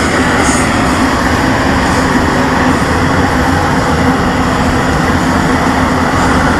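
A motor vehicle's engine running steadily and loudly close by, with a constant hum.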